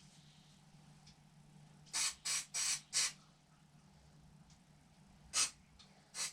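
Short squirts of an aerosol cleaner spray hissing onto carburetor parts: four quick bursts about two seconds in, and one more near the end.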